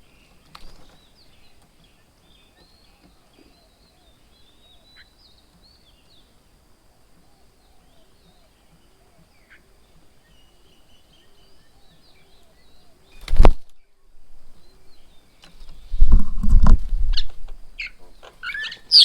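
Birds chirping faintly at a bird feeding table, then a sharp loud thump, a short low rumbling flurry a few seconds later, and loud squawking bird calls near the end.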